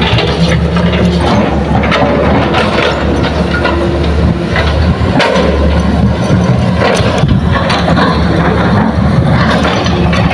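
Heavy diesel engine of a Hitachi excavator running steadily while digging and loading soil, with a few sharp knocks scattered through it.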